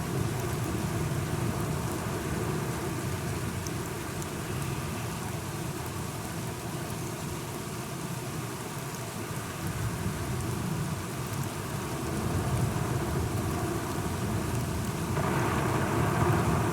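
Steady rain falling, with low rolling thunder rumbling in slow swells. About fifteen seconds in, a louder rushing sound rises over the rain.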